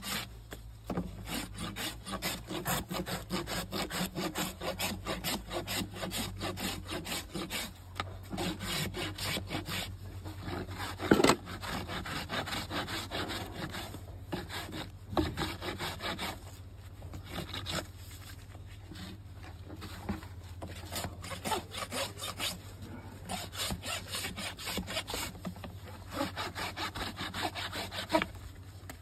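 A Shire horse's hoof being scraped by a farrier's trimming tool in quick, even strokes, about three a second, with short pauses and a single sharp knock about eleven seconds in.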